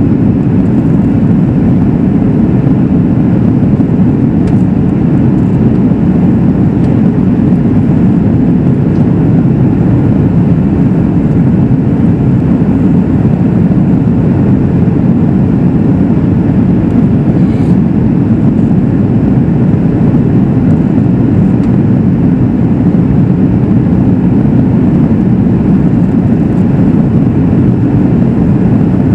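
Steady, loud cabin roar inside a Boeing 737 MAX 8 airliner in flight: engine and airflow noise heard from a seat by the wing, with no change in pitch or level.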